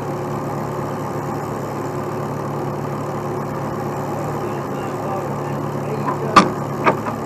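Heavy truck engine idling steadily. About six seconds in there is one sharp metal clank, and a few lighter clanks follow just after.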